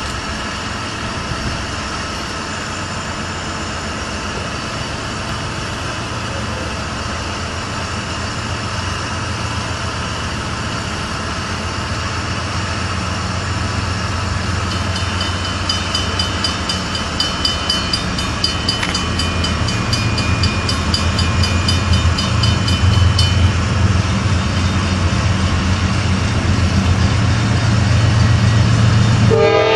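Norfolk Southern diesel locomotive approaching, its low engine rumble growing steadily louder. For several seconds around the middle, a grade-crossing bell rings at a steady beat.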